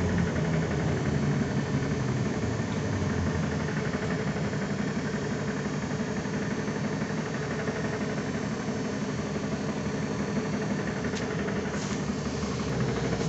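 Cabin noise of a ZiU-9 trolleybus standing still in slow traffic: a steady mechanical hum and rumble. A louder low drone in the first second dies away.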